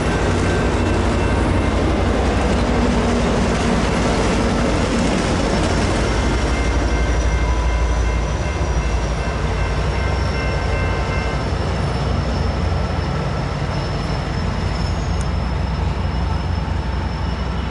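Amtrak Pacific Surfliner passenger train running along the track: a steady rumble of wheels on rail with rail clatter. A faint, thin high whine drifts slowly in pitch, and the low rumble eases slightly about eight seconds in.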